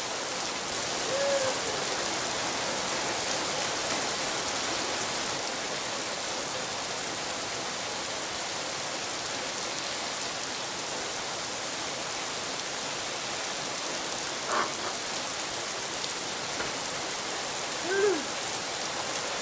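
Steady heavy rain hiss, with a few brief high-pitched hoot-like calls, the loudest near the end.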